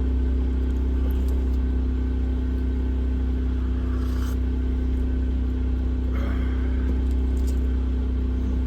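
Generator running steadily with a constant low hum, with a couple of faint brief rustles about four and six seconds in.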